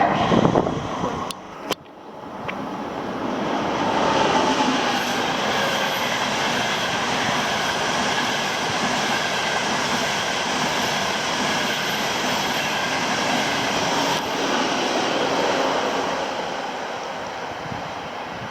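Frecciarossa high-speed train passing: a loud rushing rumble of wheels and air that builds from about two seconds in, holds steady, and fades near the end, with a faint high squeal of the wheels.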